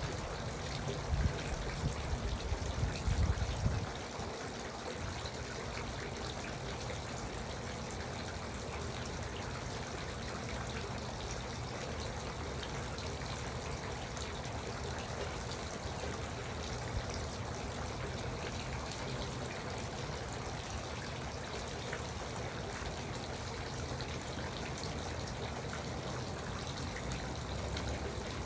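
Garden water fountain trickling and splashing steadily. Low rumbling bumps sit under it for the first four seconds, then stop.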